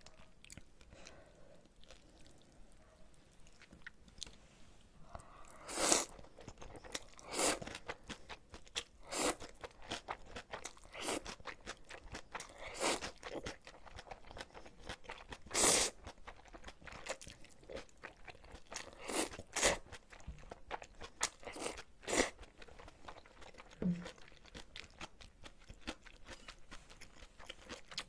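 Close-miked chewing of spicy napa cabbage kimchi and ramyeon noodles. Crisp crunches come one every second or two, starting about five seconds in.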